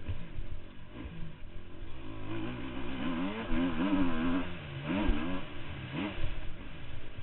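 Motocross bike engine revving, its pitch swinging up and down with the throttle and gear changes. It grows loudest in the middle, then fades.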